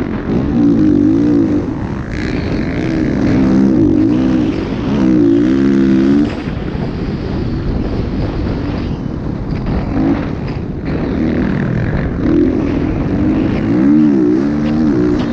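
Motocross bike engines revving, the pitch rising and falling again and again as the throttle is worked, in repeated bursts over a steady engine noise.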